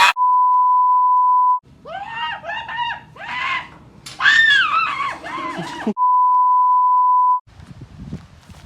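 Two long censor bleeps, each a steady 1 kHz tone lasting about a second and a half, with a person screaming in high, wavering cries between them.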